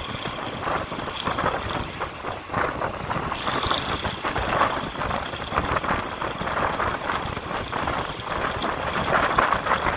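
Passenger coach of a diesel-hauled train running along the track, heard from an open window: a steady clatter and rattle of wheels on rails and coach body, with air rushing past.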